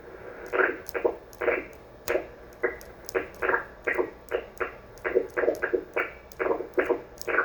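The signal of a homebrew VFO heard through a radio receiver, its tone warbling in short sweeps about twice a second as the bouncing coil pulls the oscillator frequency back and forth: an unstable, mechanically wobbling oscillator.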